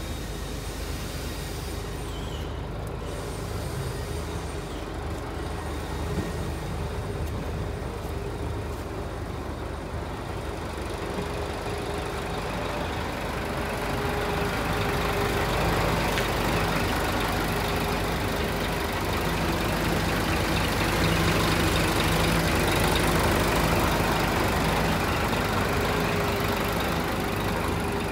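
Diesel engine of a Scania P 380 vacuum truck running steadily, growing louder about halfway through.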